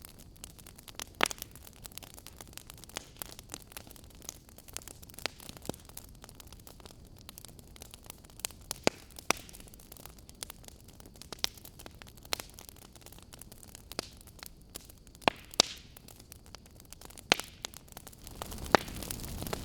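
Wood fire burning, with irregular sharp crackles and pops from the burning logs over a low steady hiss. The hiss gets louder near the end.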